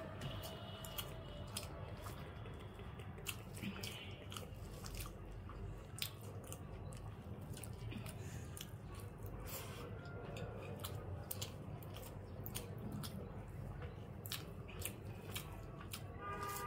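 Close-up chewing of a mouthful of rice and curry, with many short, soft smacking clicks scattered throughout, while fingers mix rice on a plate.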